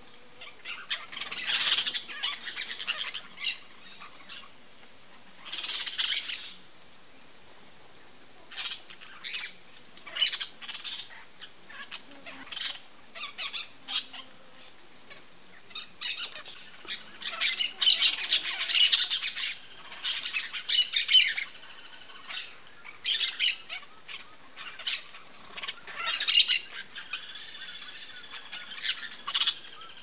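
Wild birds giving harsh, scratchy squawks in bouts every few seconds, busiest in the second half, over a thin steady high-pitched tone.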